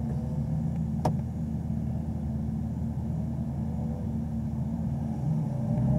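2017 Camaro ZL1's supercharged 6.2-litre LT4 V8 idling steadily while the car waits stationary, heard from inside the cabin, with one sharp click about a second in. The engine note rises slightly near the end.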